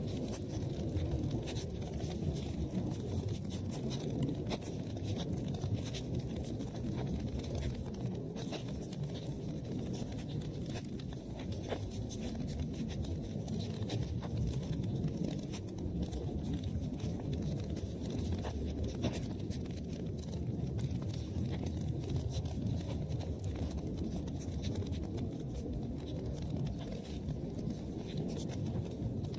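Wood fire burning in a fireplace: a steady low rumble of flames with many small sharp crackles and pops scattered throughout.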